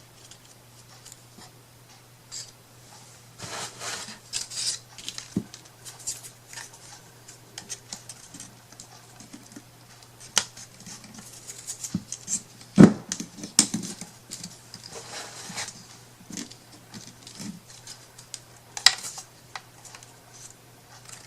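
Craft materials being cut and handled on a work table: scratchy cutting strokes and scattered small clicks and taps, with a sharper knock about halfway through and another near the end, over a faint steady low hum.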